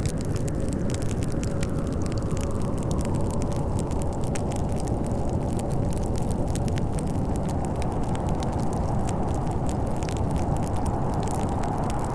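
Steady snowstorm wind, with a log fire crackling and popping in many small sharp snaps over it.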